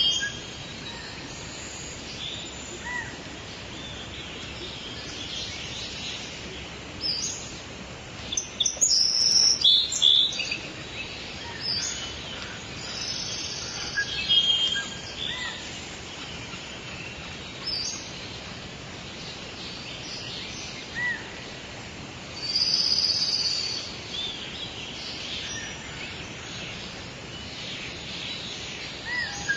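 Several birds chirping and calling in short, scattered phrases over a steady background hiss, with louder bursts of calls about a third of the way in and again about three quarters through.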